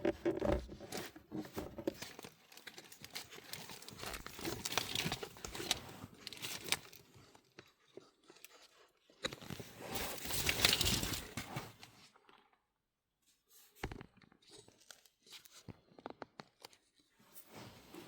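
Hands working a car's plastic glove box and dash trim: rustling and scraping in two stretches, then a few scattered clicks near the end.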